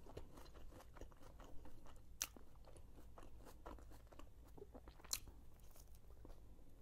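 Faint chewing of a mouthful of shawarma: many small wet mouth clicks, with two sharper crunchy clicks about two and five seconds in.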